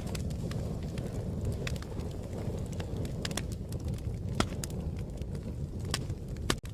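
Wood fire crackling: irregular sharp pops and snaps over a steady low rumble of flames. The sound cuts out for an instant near the end.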